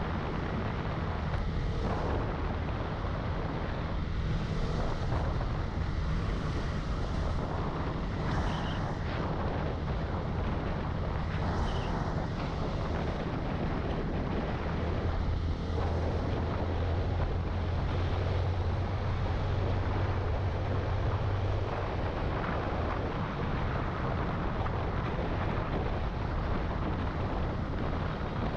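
Yamaha Sniper 155 VVA's single-cylinder engine running steadily under way, with wind noise buffeting the microphone.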